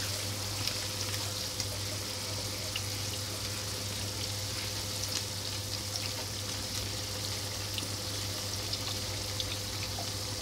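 Purple eggplant pieces shallow-frying in oil in a pan: a steady sizzle with small scattered pops and crackles, over a low steady hum.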